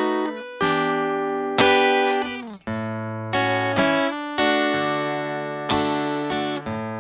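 Acoustic guitar played slowly: a mix of plucked bass notes and chords, each left to ring and fade before the next, with a brief damping of the strings near the middle. It is an instrumental interlude passage worked through from a B7 chord.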